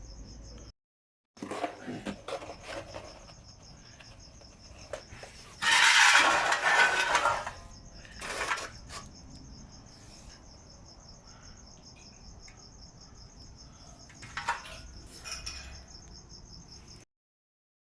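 A cricket chirps steadily in a fast, even pulse. About six seconds in, a loud rush of noise lasting a second or two covers it, and shorter bursts follow later.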